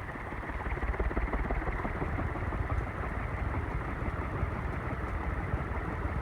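API (relabeled CEC) 48-inch industrial ceiling fan running on high speed, moving a large amount of air: a steady rushing noise of the airflow, strongest at the low end, growing a little louder about a second in.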